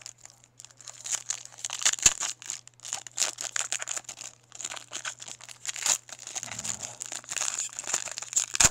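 Foil trading-card pack wrapper crinkling and tearing as a pack is opened, with cards being handled; dense crackling and sharp clicks throughout, over a faint steady low hum.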